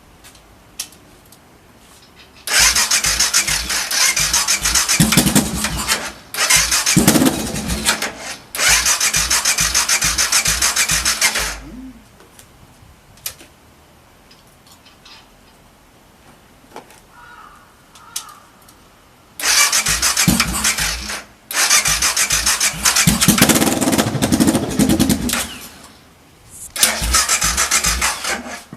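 BMW F650GS motorcycle engine being cranked on its electric starter in six separate bursts of a few seconds each, with an even pulsing beat. The engine doesn't keep running, consistent with its faulty fuel pump.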